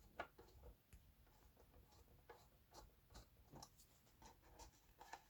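Faint, irregular clicks and scrapes of a screwdriver turning a screw loose in a subwoofer's casing.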